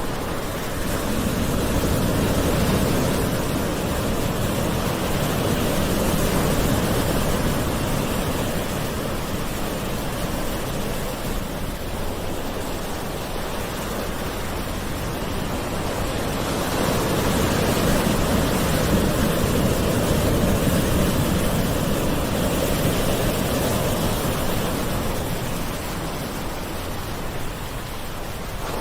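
Gentle ocean waves washing ashore: a continuous wash of surf that swells and eases slowly, with two broad swells about ten seconds apart.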